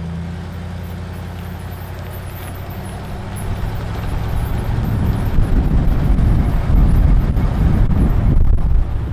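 A motor vehicle's engine running, starting abruptly and growing louder and rougher from about three seconds in.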